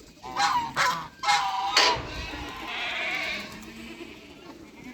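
Goats bleating, several short wavering calls in quick succession in the first two seconds, then quieter.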